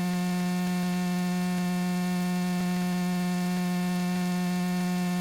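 Steady electrical hum, a low buzz with a ladder of even overtones, in the aircraft's radio and intercom audio feed; it comes in sharply as the talk stops and holds without change.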